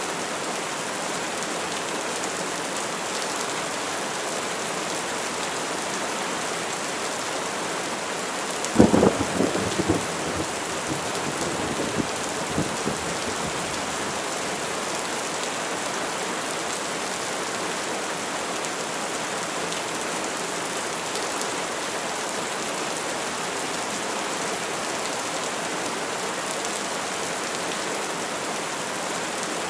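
Steady rain falling, with a sudden crack of thunder about nine seconds in and a few more cracks and rumbles that die away over the next four seconds.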